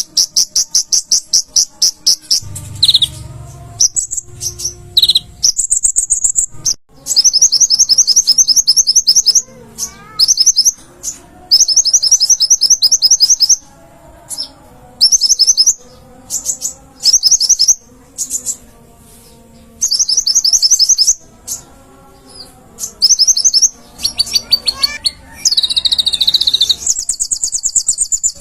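Konin (kolibri ninja) sunbird in full song: rapid, high-pitched trilled chirps in repeated bursts of one to two seconds with short pauses between them.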